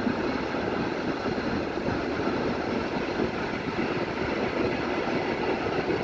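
Passenger train running at speed, heard from an open coach window: steady rush of wind and the rolling noise of wheels on the rails.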